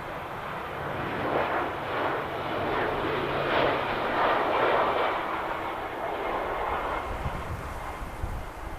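Airliner engines roaring as a plane passes, swelling from about a second in, loudest about halfway through, then easing.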